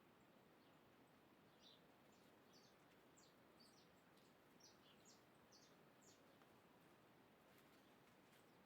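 Faint, high bird chirps, a quick series of short notes over a few seconds, against a steady low hiss.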